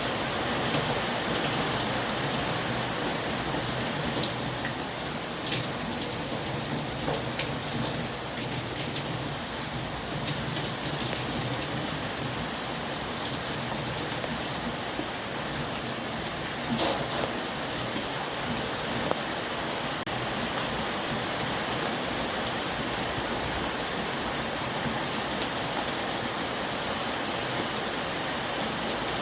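Heavy rain pouring steadily, with scattered sharper drop impacts now and then.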